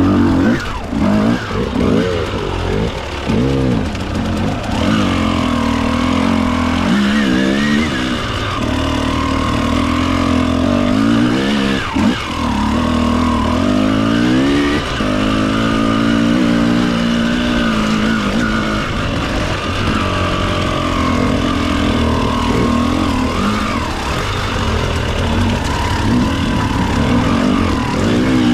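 Enduro motorcycle engine running under changing throttle, its pitch rising and falling again and again.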